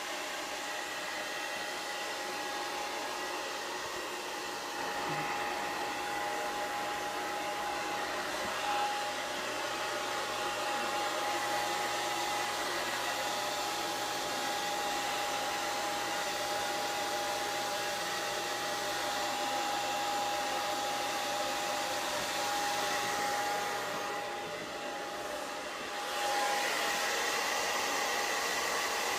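Hair dryer blowing steadily with a high whine over its rush of air. It drops briefly near the end, then comes back a little louder.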